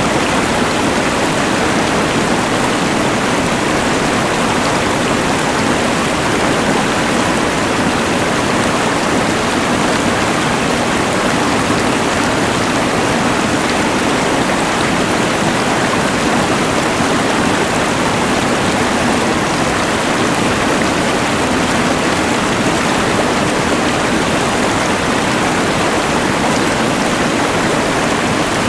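Rushing mountain river mixed with a LectroFan white noise machine: a steady, even rush of water and hiss that does not change.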